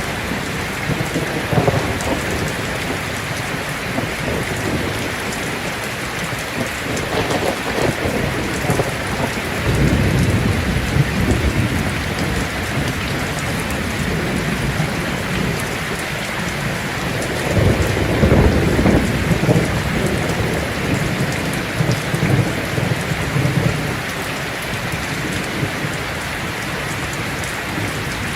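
Heavy rain drumming steadily on a tin roof, with rolls of thunder rumbling low about ten seconds in and again about eighteen seconds in.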